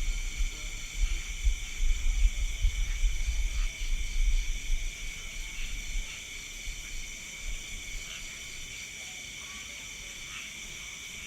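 Night insect chorus, likely crickets, as a steady high, layered buzzing. A heavy low rumble sits under it for the first half and fades out about six seconds in.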